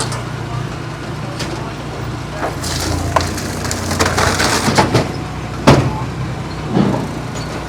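Engine-driven hydraulic log splitter running steadily while wood cracks and splits under it, with the loudest crack about six seconds in and another a second later.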